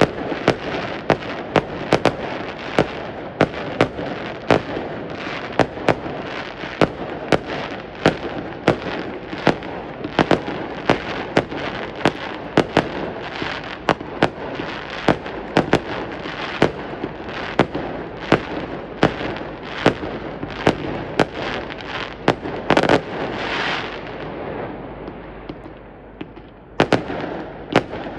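Fireworks going off in a continuous barrage: sharp bangs about twice a second over a steady crackle, with a denser burst of crackling around two-thirds of the way through and a short lull before the bangs resume.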